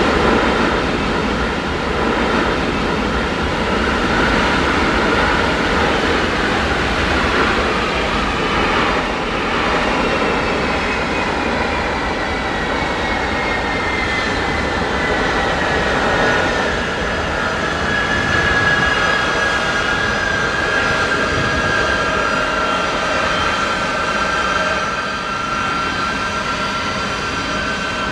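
Jet aircraft engines running on the ground: a steady loud rush with a high whine that falls in pitch for about ten seconds, starting about a third of the way in, then holds level.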